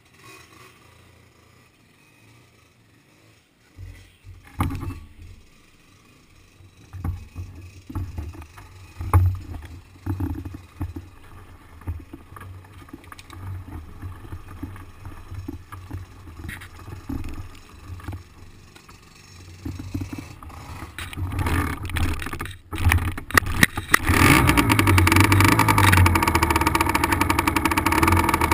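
Small two-stroke dirt bike engine, 50cc class, rising and falling with throttle blips. Near the end it turns loud and continuous as the bike rides at higher revs.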